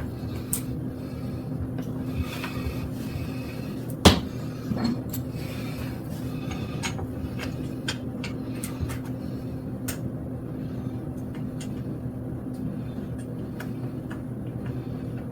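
Scattered light clicks and rattles of bike parts being handled during assembly, with one sharp knock about four seconds in, over a steady low hum.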